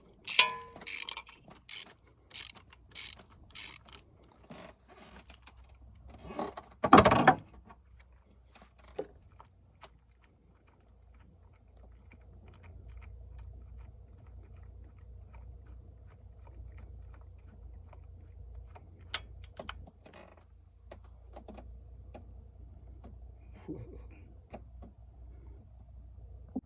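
Hand socket ratchet clicking through a run of short strokes, turning a spark plug in its well. About seven seconds in there is one louder clunk, and after that only a faint low hum with an odd click.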